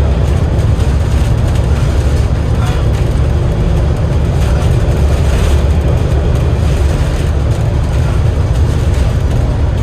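Alexander Dennis Enviro500 MMC double-decker bus running, heard from inside: a steady low rumble from its Cummins L9 diesel engine and drivetrain.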